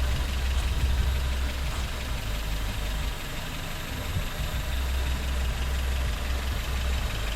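Rebuilt Toyota 7A-FE 1.8-litre four-cylinder engine of a 1996 Corolla idling, a low even hum.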